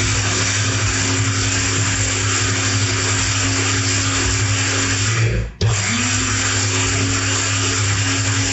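Electric mini spice grinder (200–300 W) running at full speed, grinding dry grain to powder with a steady loud whirring. About five and a half seconds in it stops for a moment, then starts again and spins back up.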